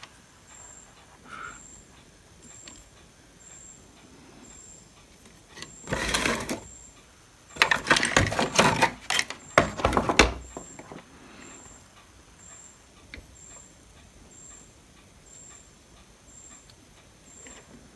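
Small parts and tools being handled and clattering on a workbench, in a short bout about six seconds in and a longer one of quick knocks and rattles from about eight to ten seconds in.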